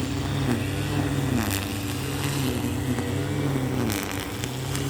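An engine running steadily, its pitch dipping and recovering about once a second.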